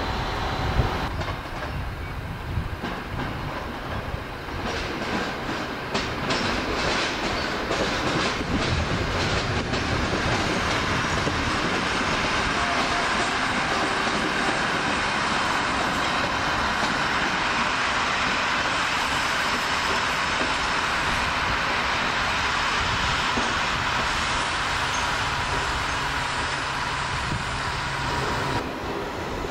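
An older diesel multiple unit rolling through the station, its wheels clicking over rail joints and switches in quick runs from about six seconds in, over a steady rumble of running noise.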